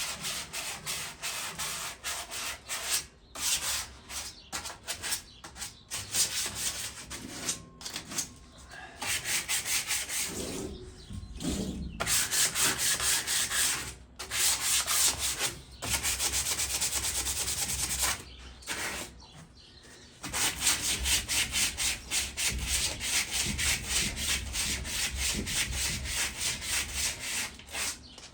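Sandpaper rubbed by hand in rapid back-and-forth strokes over a rusted metal patio chair, taking off surface rust before painting. The scraping comes in runs with short breaks.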